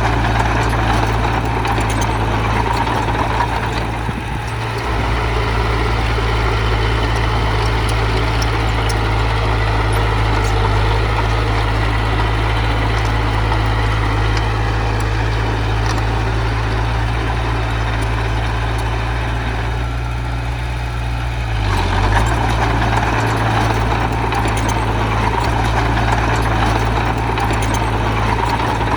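Heavy diesel engine of earth-moving machinery running steadily, with a strong low hum. It eases briefly about four seconds in, and again around twenty seconds before picking up.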